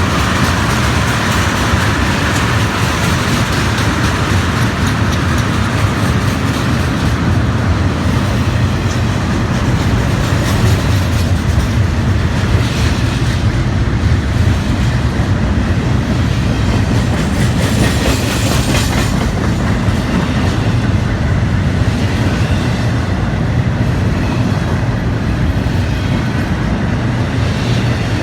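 Loud, steady rumble of a freight train's cars rolling past, tank cars among them, with the wheels clacking over the rail joints. Twice there is a brief brighter hiss or screech from the wheels.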